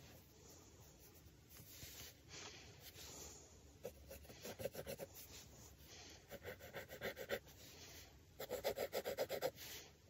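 Graphite pencil scratching on drawing paper. Light sketching early on gives way to three spells of quick back-and-forth strokes, each about a second long and about nine strokes a second.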